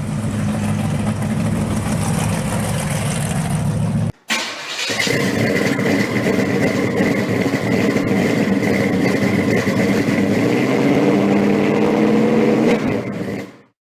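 A 1986 Chevrolet Monte Carlo SS pro street car's engine running steadily. The sound drops out sharply for a moment about four seconds in, then returns with a steady high whine over the engine, and stops shortly before the end.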